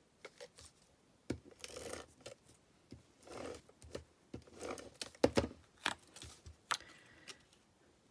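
Paper and cardstock being handled at a craft table: several short rustles of paper and a few sharp little clicks and taps as pieces are picked up and set down.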